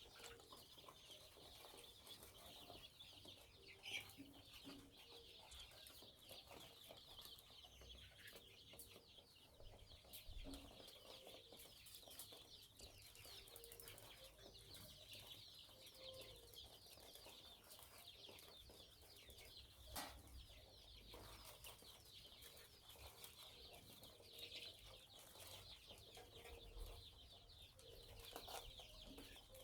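Faint, continuous peeping of a large flock of week-old chicken chicks in a brooder, many overlapping high cheeps at once.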